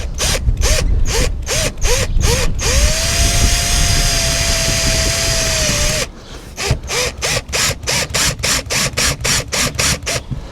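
Cordless drill-driver driving a screw: a few short trigger bursts, then a steady run of about three seconds, then a quick run of even clicks.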